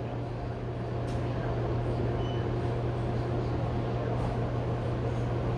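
A steady low machine hum, with faint brief clatter over it.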